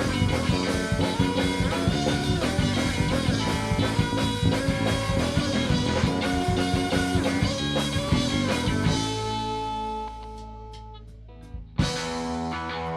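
Live rock band with electric guitar and drum kit playing. About nine seconds in, the drums stop and held notes fade away. Near the end a sudden loud hit is followed by ringing guitar chords.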